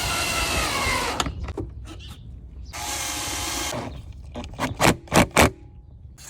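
Cordless power drill/driver winding down in pitch as the trigger is released, then a short steady run about three seconds in, then three quick loud blips of the trigger near the end.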